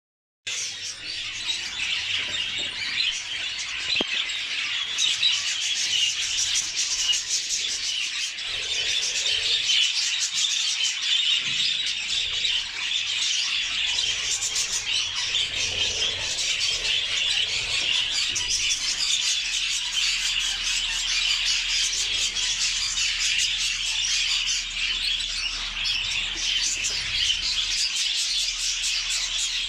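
Budgerigars chattering continuously: a dense stream of high chirps, warbles and squawks.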